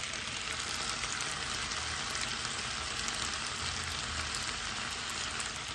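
Raw chicken pieces, onion and red pepper frying in oil in a large frying pan, a steady sizzling hiss.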